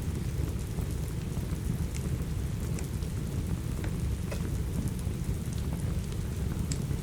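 Steady rain over a dense low rumble, with scattered sharp crackles and pops from a wood fire in a fireplace.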